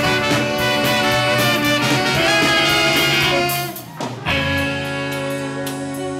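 Live swing band playing, picked up from close to the band rather than through the speakers. The music dips for a moment about four seconds in, then carries on with long held notes.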